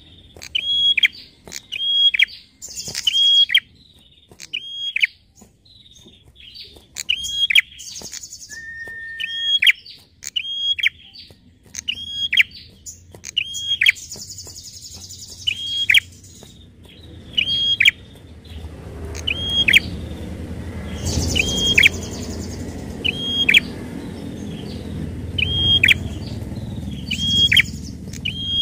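A prinia (prenjak) calling, repeating a sharp, high note that drops steeply in pitch, about once a second, with a low rumble in the background in the second half.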